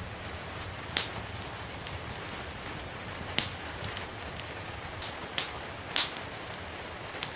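Wood fire in a fireplace crackling, with sharp irregular pops every second or two, over a steady hiss of gentle rain.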